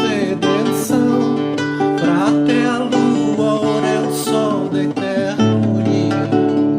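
Acoustic guitar (violão) strummed and plucked in a caipira-style song, with a singing voice over it.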